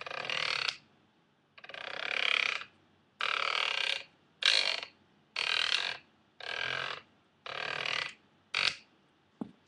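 indiFOCUSpro follow focus with Snap Gears making a rough gear noise as it is spun, in eight separate bursts about a second apart, then a short click near the end. The drive is not running smoothly, and the owner doesn't think a follow focus should make that kind of noise.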